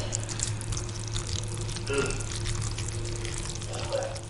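Wet, crackling liquid sounds over a steady low hum.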